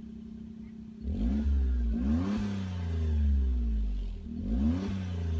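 Suzuki Alto Lapin SS (HE21S) 660 cc turbocharged three-cylinder engine breathing through a Fujitsubo Power Getter aftermarket muffler. It idles steadily, then is revved in throttle blips from about a second in and again near the end, the pitch rising and falling back each time.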